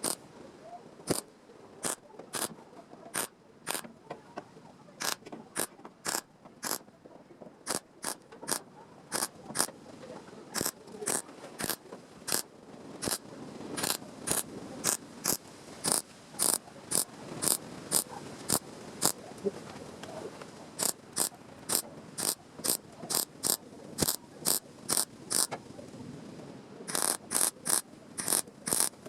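A long series of sharp clicks or taps at an uneven pace, about one to two a second, bunching into a quick run near the end.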